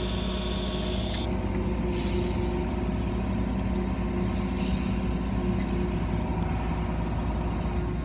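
Car wash machinery running with a steady motor hum, with short hisses of air or spray about two seconds in and again around the middle.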